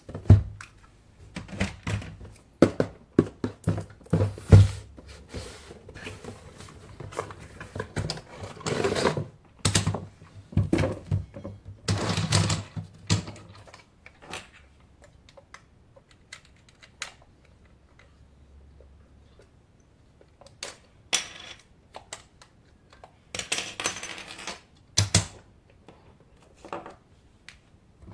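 Hands handling a toy and its packaging: irregular clicks, taps and knocks, with several longer rustling scrapes about a third of the way in and again near the end.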